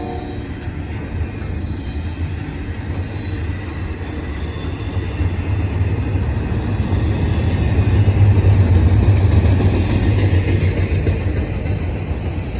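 Freight train passing close by: a steady rumble of rolling cars with a strong low hum, growing louder to a peak about eight seconds in, then easing a little.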